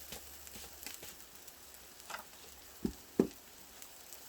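Marinated pork belly sizzling and crackling on a grill over a wood fire, with two sharp knocks close together about three seconds in.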